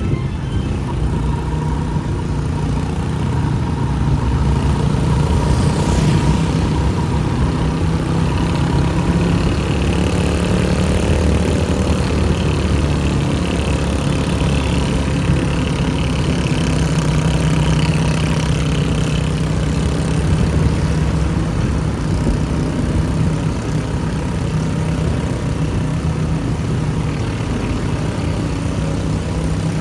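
Motorcycle engine running steadily amid street traffic, a continuous low rumble with a faint steady whine over it.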